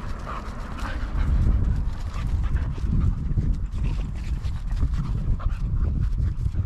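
Jindo dogs panting and moving about, over a steady low rumble.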